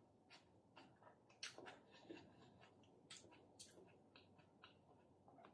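Near silence with faint chewing sounds: scattered small wet clicks from a mouth working on food.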